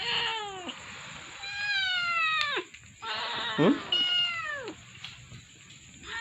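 Kitten meowing: about four loud, high-pitched cries in a row, each falling in pitch at the end.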